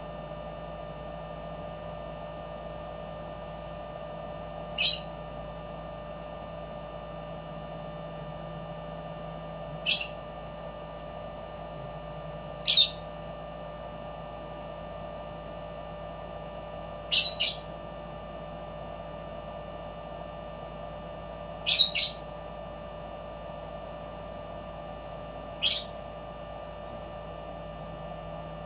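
A bird giving short, high chirps every three to five seconds, singly or in quick pairs, over a steady electrical hum.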